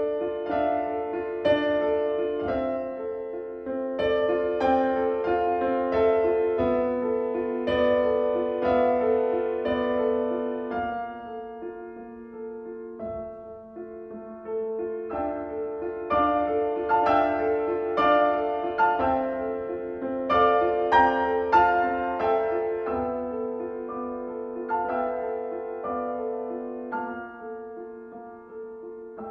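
Piano music: slow phrases of struck, sustained notes over held low notes. It swells in the middle and grows softer toward the end.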